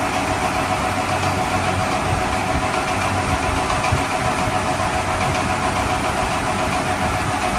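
A vehicle engine running steadily at an even level, with a constant hum under it.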